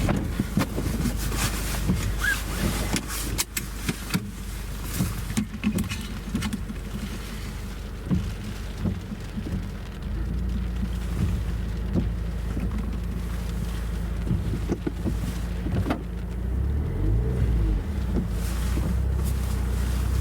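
Subaru WRX being driven: steady engine and road noise with scattered knocks and bumps. The engine note shifts and wavers in the last few seconds.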